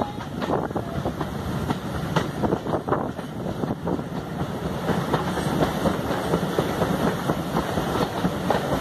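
Passenger train running along the track, heard from an open carriage window: a steady rumble and rushing air with wheels clicking and knocking irregularly over the rails.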